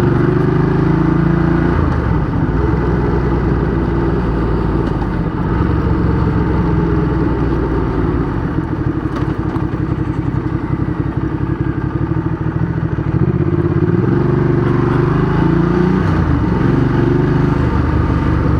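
Ducati Diavel 1200's L-twin engine running loud through a race-fit aftermarket exhaust while riding. The engine note drops about two seconds in, stays lower through the middle, and rises again near the end.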